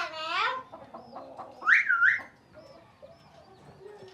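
Birds calling: a drawn-out call right at the start and a loud, sharp call that rises and then falls about two seconds in, over faint high chirping from smaller birds.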